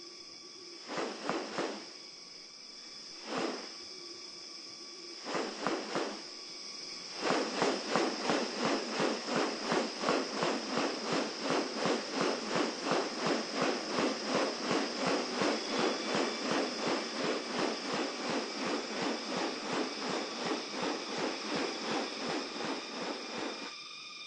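Rainforest animal sounds: a steady high insect drone, with a few separate harsh rasping calls, then from about seven seconds in a fast, regular series of rasping pulses, two to three a second, that stops shortly before the end.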